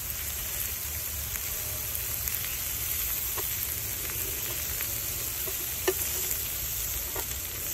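Chicken and vegetables sizzling steadily in a hot cast iron skillet, with a few light scrapes and taps of a metal spatula as the chicken pieces are cut smaller.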